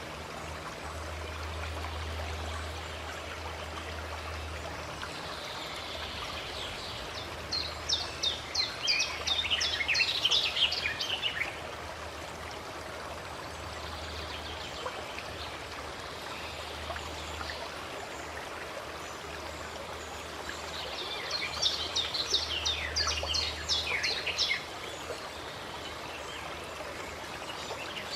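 Steady rush of a flowing stream, with a small bird twice singing a fast run of sharp high notes, each phrase lasting a few seconds, about eight seconds in and again about twenty seconds in.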